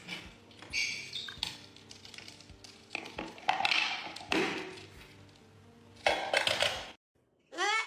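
Irregular clattering and clinking of hard objects being knocked about, then a short rising-and-falling call near the end.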